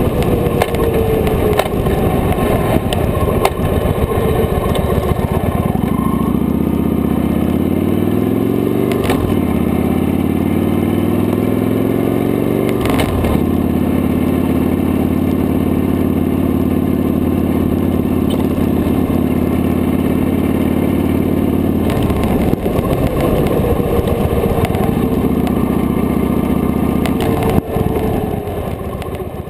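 Victory High-Ball motorcycle's V-twin engine under way, heard through wind noise on a handlebar-mounted camera. The engine pulls up in pitch twice a few seconds in as it accelerates through the gears, runs steady at cruising speed, eases off, and holds steady again later.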